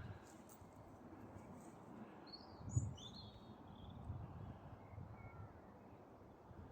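A few short, high bird chirps about two to three seconds in, over soft footsteps on a woodland path and a faint steady hum of distant road traffic.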